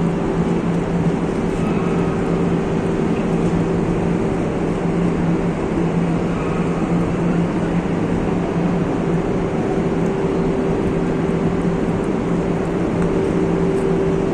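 Steady industrial noise of a steel-melting furnace and melt-shop machinery in operation: a constant loud rush with a deep, unchanging electrical-sounding hum of two tones running under it.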